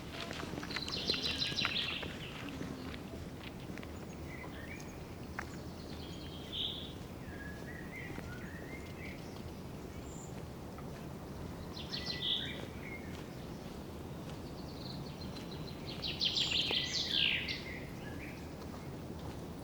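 Songbirds singing: short trilled and chirped phrases every few seconds, the loudest about a second in and again near the end, over a steady low background hiss.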